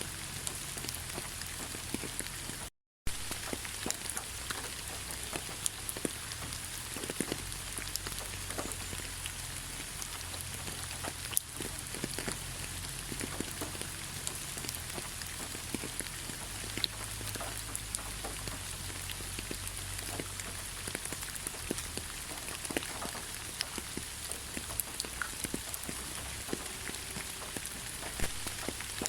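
Steady rain falling in a pine forest, with many individual drops striking close by. The sound cuts out completely for a moment about three seconds in.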